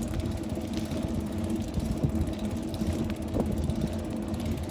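Wind rumbling on the microphone while riding a bicycle on a paved road, over a steady low hum.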